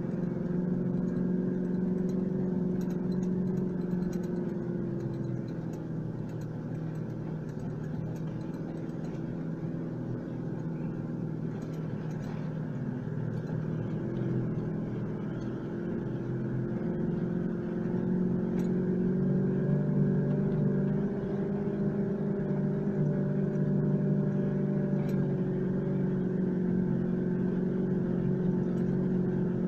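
4WD engine running under steady, slow driving on a dirt track, heard from inside the cab. The engine note drops about five seconds in and rises again about halfway through.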